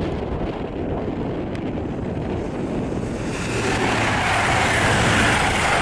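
Grand Central Class 180 diesel multiple unit approaching, its running noise and a low steady hum growing louder from about three seconds in, under heavy wind buffeting the microphone.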